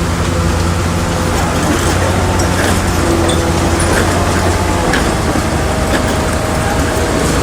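Bulldozer diesel engine running steadily under load, with a few light metallic clicks about halfway through.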